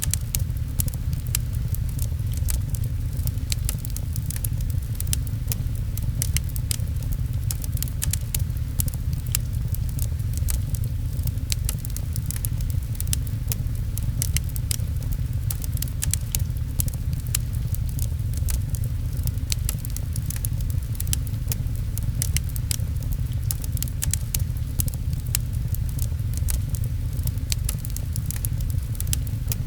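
Wood fire crackling with frequent sharp pops, over a steady low rumble and pattering rain.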